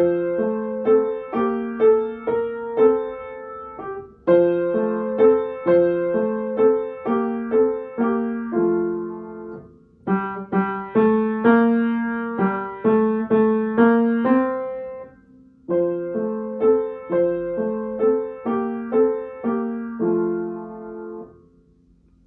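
Piano playing a simple beginner's piece in four short phrases of steady, evenly paced notes, with brief pauses between the phrases; the last note dies away shortly before the end.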